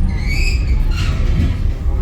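Passenger train running on the rails, heard from on board as a loud, steady low rumble, with brief high-pitched squeals from the wheels in the first half second.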